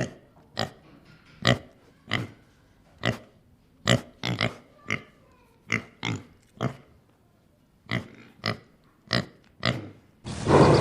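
An animal giving short, sharp calls over and over, about one or two a second, with a short pause partway through. A louder, different sound begins just before the end.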